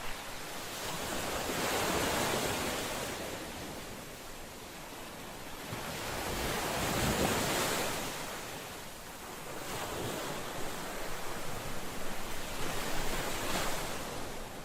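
Ocean surf washing onto a shore: two long surges of waves swell and fade, then a choppier spell of splashing follows near the end.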